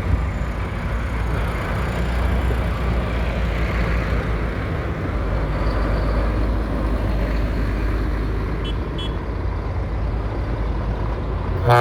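Tractor diesel engines running steadily as tractors drive past. A loud horn sounds right at the very end.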